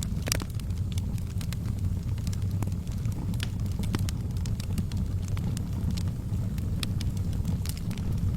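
Wood fire burning in a fireplace: a steady low rumble of the flames with irregular sharp crackles and pops from the burning logs, one louder pop just after the start.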